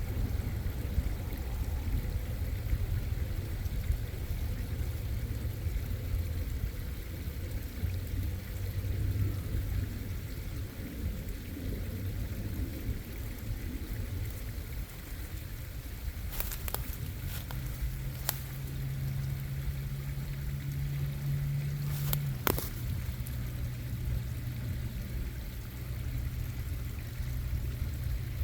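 Stream water running and bubbling, heard mostly as a steady low rumble. A few sharp clicks come a little past halfway, along with a brief steady low hum for about five seconds.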